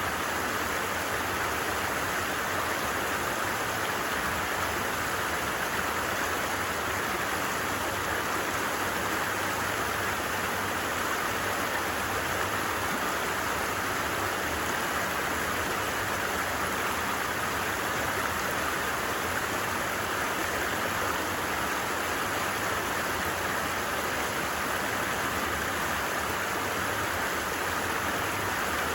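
A stream flowing steadily, an even, unbroken wash of water noise.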